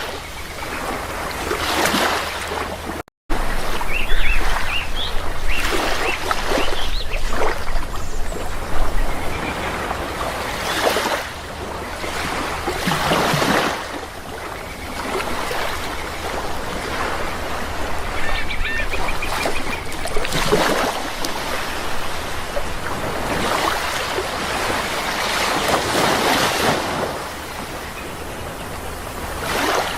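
Sea waves washing in, in repeated surges every few seconds, with bird calls over them several times between about 4 and 7 seconds in and again around 19 seconds. The sound cuts out completely for a split second about 3 seconds in.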